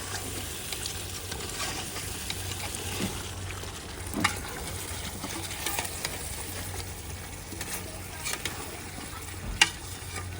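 Layer-bird chicken curry sizzling as it fries in a pot while being stirred, with a few sharp knocks of the spoon against the pot, the loudest near the end.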